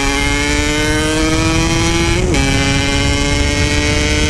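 Yamaha RX-King 135 cc two-stroke single-cylinder motorcycle engine accelerating under way through a standard-style aftermarket packing muffler, its pitch climbing steadily. About two seconds in the pitch drops quickly with a gear change and then climbs again.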